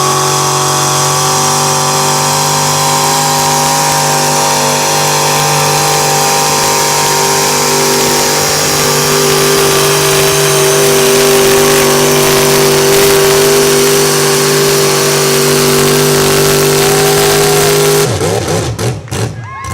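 Pulling truck's engine held at high, steady revs under load during a truck pull. Near the end it lets off and revs down and up in a few quick blips.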